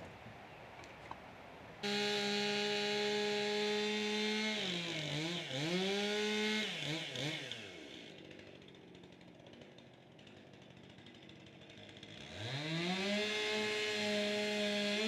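Chainsaw opening to full throttle about two seconds in. Its pitch sags and wavers as the chain bites into the old timber beam ends being cut off, then it is throttled back to a quieter idle. It revs up again and bogs into the wood near the end.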